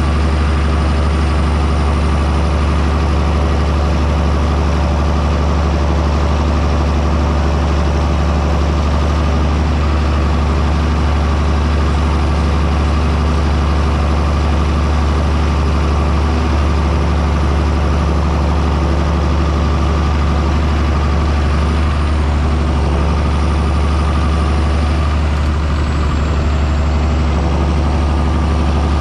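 John Deere 6630 Premium tractor's six-cylinder diesel engine running steadily while plowing, a deep, even drone with a faint high whine above it that drifts slightly in pitch.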